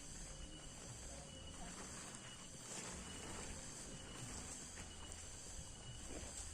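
Faint forest ambience: a steady high insect chorus with a thin, on-off chirping tone running through it. A few soft knocks or rustles are mixed in.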